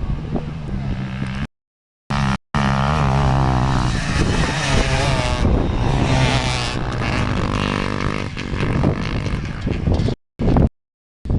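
Dirt bike engine revving, its pitch rising and falling, with the sound cutting out abruptly to silence a few times.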